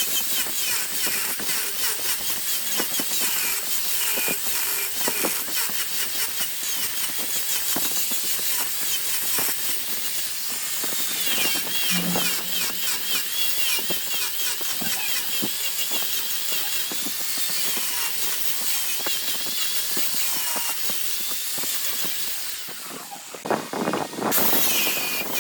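Wood being cut on a lathe: a turning tool shaving a spinning wood blank, a steady hiss with many small ticks. The sound dips and changes briefly near the end.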